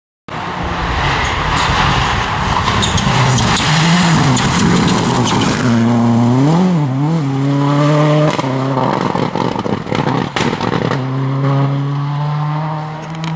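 Rally car at speed on a special stage: loud tyre and road noise over the engine, the engine note rising and dipping quickly twice about halfway through, then holding a steady note near the end.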